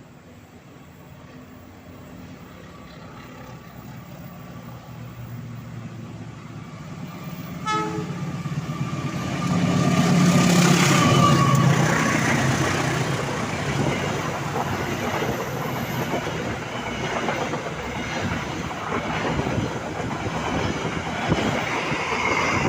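A train approaching and passing close by: a low steady engine hum that grows louder, a short horn toot about eight seconds in, then loud rumble and clatter of wheels on the rails as the cars go past.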